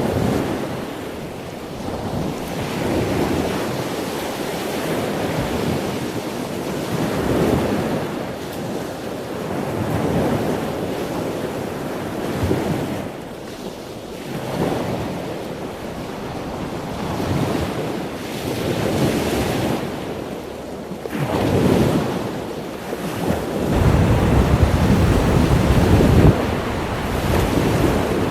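Rushing water and wind buffeting the microphone, the noise swelling and easing every couple of seconds, with a heavier stretch of low wind rumble near the end.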